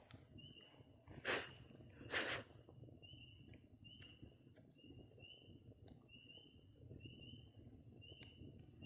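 A small animal calling a short, high, slightly rising chirp over and over, about once every 0.7 seconds. Two loud, brief rustling crunches come about a second and two seconds in.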